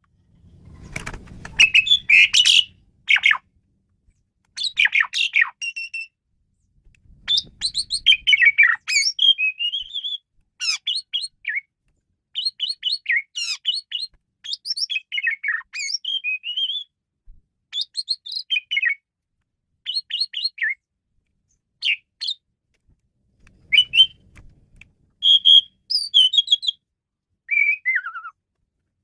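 Asian pied starling (jalak suren) singing: a rapid, varied string of chirps, whistles and chattering phrases broken by short pauses. Three faint low rumbles sit under it.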